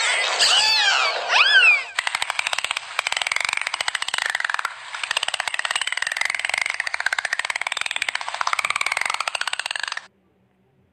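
Dolphin calls: a few quick arching whistles that rise and fall in pitch. About two seconds in, a rapid train of clicks takes over for some eight seconds, with wavering whistle tones beneath it, and cuts off suddenly near the end.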